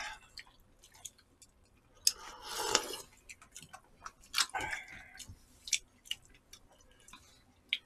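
Close-miked eating sounds: chewing with scattered crisp crunches and mouth clicks, likely from pickled radish (danmuji), and a couple of short noisy smacks or sips in between.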